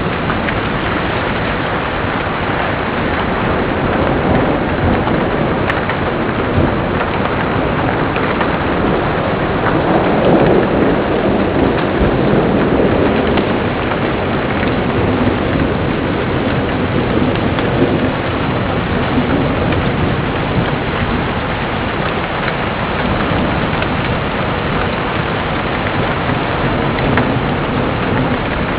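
Steady heavy rain with thunder rumbling, the rumble swelling about ten seconds in.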